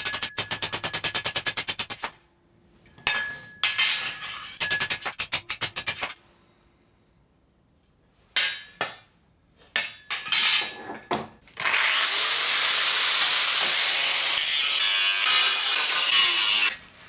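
Workshop tool work on steel parts: two bouts of fast, even rattling strokes, then a few scattered clicks and knocks, then a loud steady hiss for about five seconds that cuts off suddenly.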